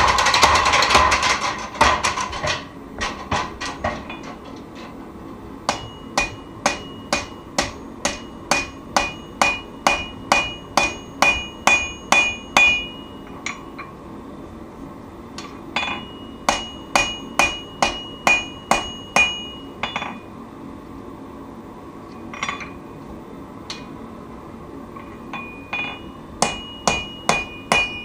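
Hand hammer striking steel on an anvil in runs of about two blows a second, many blows leaving a short metallic ring, with pauses between runs: forging the knife blank. A loud rushing noise fills the first two seconds.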